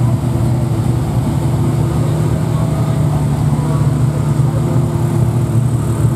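Ferrari Mondial Quattrovalvole's 2.9-litre 32-valve V8 idling steadily.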